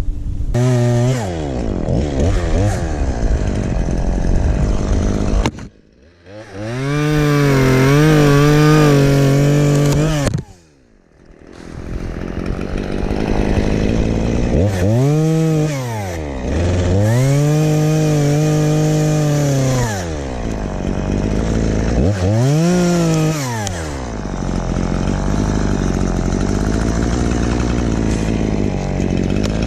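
Stihl chainsaw revving up and down again and again, each burst climbing to a high held pitch and falling away. The sound drops almost away twice, about six and eleven seconds in, and runs lower and steadier near the end.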